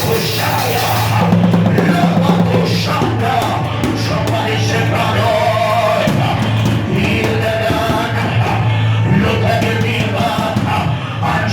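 A praise band playing, with drums and a held bass line, while voices sing over it.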